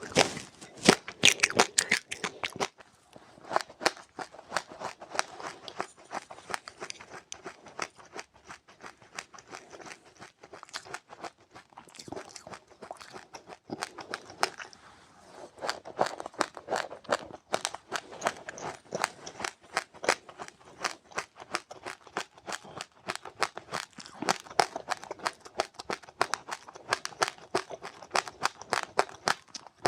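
Close-up chewing of crunchy seeds: a dense, irregular run of small crunches and clicks, with louder clusters about two seconds in and again from about sixteen seconds in and near the end.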